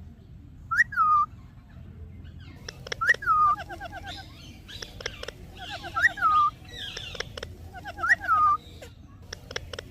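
A talking parrot repeating the same short phrase about every two to three seconds: a note that rises and then falls, followed by a quick run of short notes. A few sharp clicks come in between.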